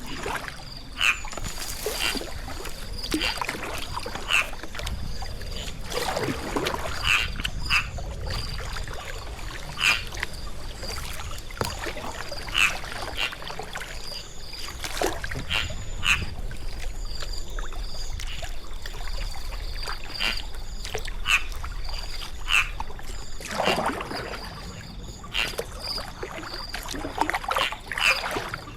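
Kayak paddle blades dipping into and pulling through river water, a short splash about once a second, with a few longer swishing strokes.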